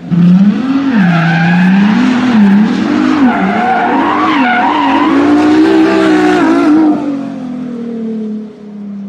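A car engine revving up and down over and over, loud, then settling to a steadier, quieter tone about seven seconds in.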